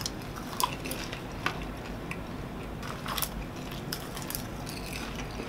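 Two people chewing mouthfuls of microwave popcorn, with scattered crisp crunches at irregular intervals.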